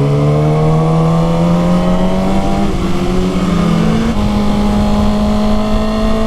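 Motorcycle engine pulling under acceleration, its pitch rising steadily, with a gear change around three to four seconds in before it climbs again.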